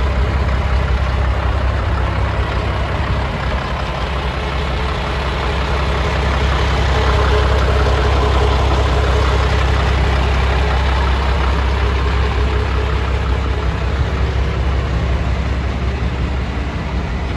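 Scania 92M truck's diesel engine running steadily with a deep, low rumble, swelling slightly about halfway through before settling back.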